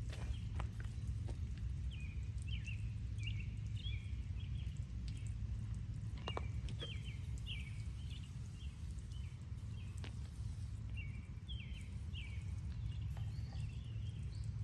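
Small birds chirping repeatedly over a steady low rumble, with a few scattered clicks.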